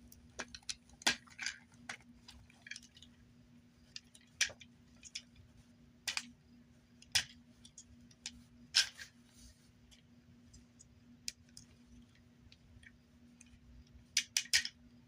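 Irregular plastic clicks and taps from a Transformers 86 Optimus Prime action figure's joints and panels being moved and snapped into place during transformation to truck mode.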